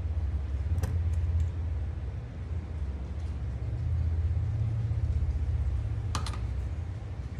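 A steady low rumble with two sharp clicks of hands handling tools and small parts, one about a second in and a doubled one near the end.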